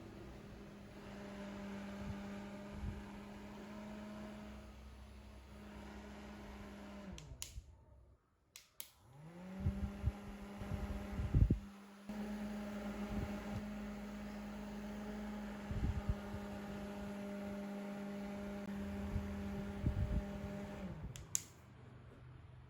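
Small 310 DC motor driving an 80 mm fan blade, running with a steady hum. About 7 s in it is switched off and spins down, then it spins back up about a second and a half later and runs on until it winds down again near the end. Clicks and knocks from the switch and from handling come around the restart.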